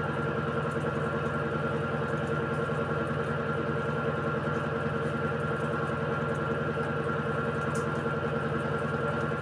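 Electrolux Essential Care 14 kg (LED14) washing machine in a long spin cycle: a steady motor hum with several held tones, unchanging.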